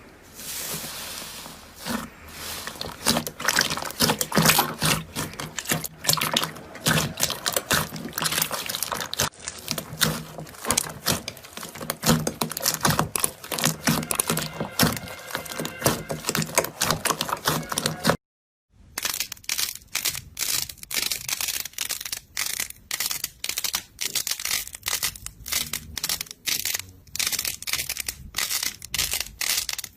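Slime being squeezed and worked by hand, giving a dense run of wet crackles and pops. After a brief cut about 18 seconds in, the pops come sharper and more spaced out.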